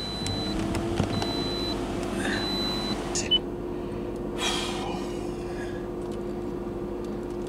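Toyota RAV4 LE's four-cylinder engine idling just after start, heard from inside the cabin as a steady hum that rises in pitch over the first second and then holds. A dashboard chime beeps three times in the first three seconds.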